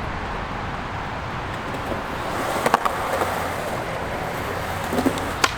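Skateboard wheels rolling on concrete, getting louder about two seconds in, with a couple of sharp clacks of the board a little before the middle and another near the end.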